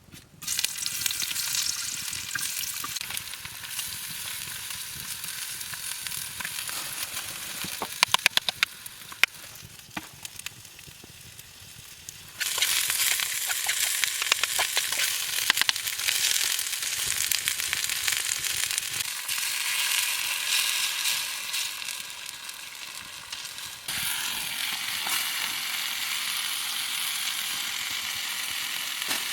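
Food frying and sizzling in hot fat, a steady hiss with a few sharp pops about eight seconds in; the level jumps abruptly several times.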